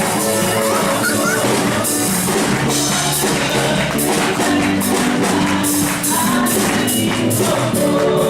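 Congregation singing a worship song with instrumental backing and a tambourine shaking in rhythm.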